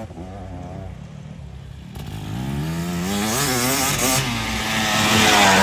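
Motocross dirt bike engine revving up and down as the rider works the throttle over the track's jumps, fainter at first and growing louder as the bike comes closer near the end.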